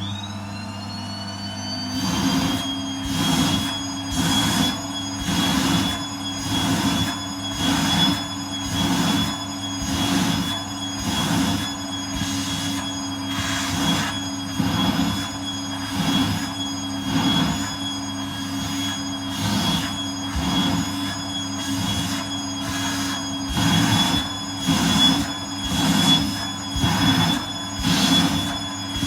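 Vacuum cleaner motor running with a high steady whine that climbs slightly in pitch over the first couple of seconds as it spins up. The suction sound swells and eases about once a second as the nozzle is repeatedly pressed against and lifted off something.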